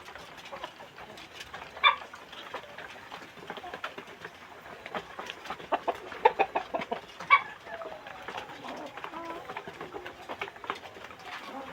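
Village chickens clucking, with short scattered calls and clicks throughout. Two sharper calls stand out, about two seconds in and near the middle.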